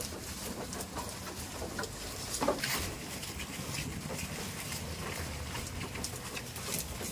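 Goats in their pen: scattered small clicks and rustling, with one short, louder sound about two and a half seconds in.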